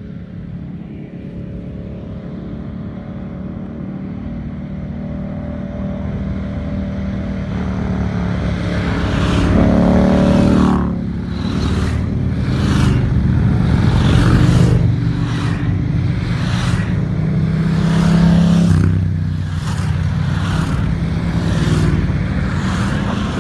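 Indian motorcycle V-twin engine riding and accelerating, fading in at the start. The pitch climbs and then drops twice, about ten and nineteen seconds in, as it shifts up a gear.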